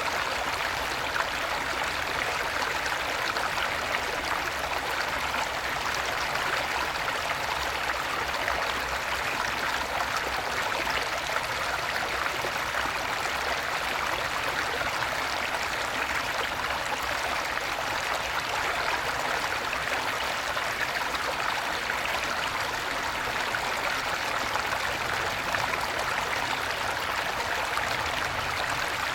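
Small stream after rain, water babbling steadily over its bed.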